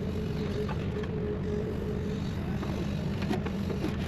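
Diesel engine of heavy equipment running steadily under load, with a few faint knocks.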